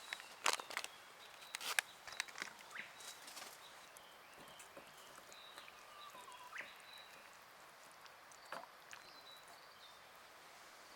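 Quiet outdoor ambience: a run of sharp clicks and knocks over the first few seconds, then a few faint bird calls over a steady hiss.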